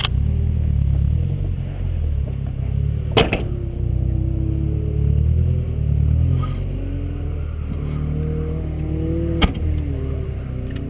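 Car engine idling in the cabin, its pitch rising and falling a little, with two sharp knocks, about three seconds in and again near nine and a half seconds.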